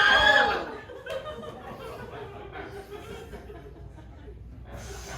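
A loud held vocal note cuts off under a second in, followed by an audience chuckling and laughing.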